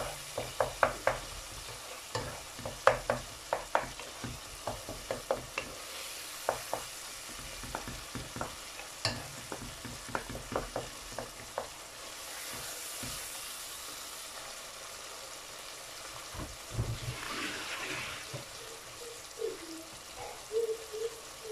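Wooden spatula scraping and tapping against a nonstick pot while a spice paste is stirred, over the steady sizzle of the paste frying in oil. The stirring thins out a little over halfway through and the sizzle carries on.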